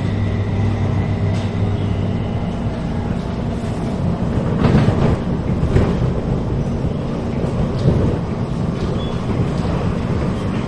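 Metro Cammell 'MLR' electric multiple unit train heard from inside a passenger car while running at speed: a steady rumble of wheels on the track and running gear. Several short, louder rattles come through about five and eight seconds in.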